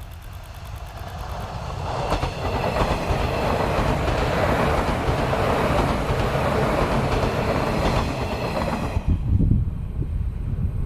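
A train passing: its running noise builds over the first couple of seconds into a loud, steady rush of wheels on rail with clickety-clack, then cuts off sharply near the end as the train clears, leaving wind buffeting the microphone.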